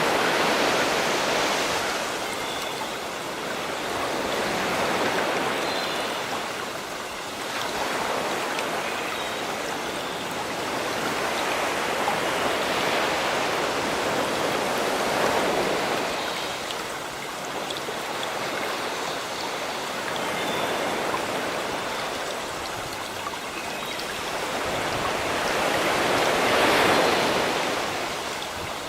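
Sea waves washing onto a shore, the surf swelling and ebbing every few seconds, loudest near the end. Faint brief bird calls sound over it now and then.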